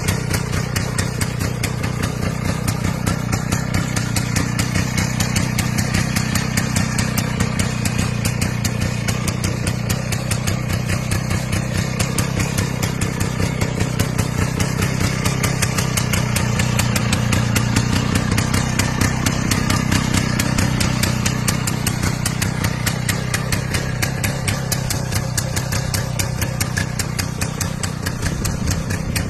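Two-stroke IZh motorcycle engine idling steadily with a fast, even firing beat, getting a little louder for a few seconds past the middle.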